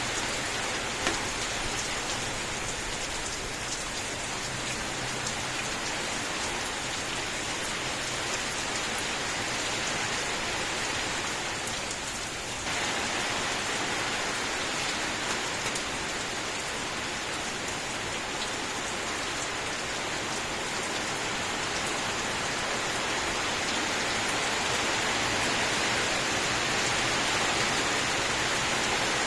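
Steady rain falling, an even dense hiss with scattered single drop ticks. About twelve seconds in, the level sags slightly and then jumps back up abruptly.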